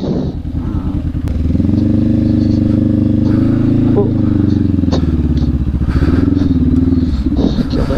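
Honda CB500X parallel-twin engine pulling on a dirt trail: the revs rise about a second and a half in, hold steady, then ease off near the end.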